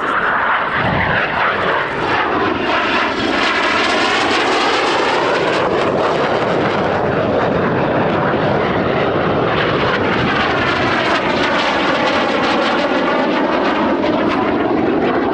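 BAE Hawk T1 jets flying low past in formation, their turbofan engines making a loud, continuous roar. The roar gives two whooshing, phasing sweeps as the aircraft pass overhead.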